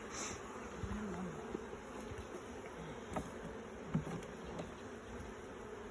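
Honey bees buzzing steadily around an open hive, with a couple of faint knocks about three to four seconds in.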